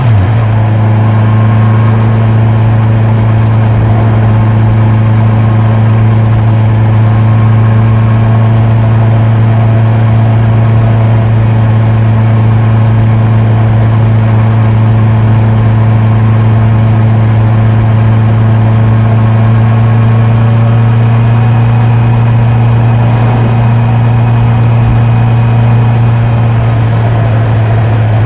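Honda CB650R's inline-four engine and exhaust running at a steady engine speed while touring. The pitch drops slightly right at the start, then holds even.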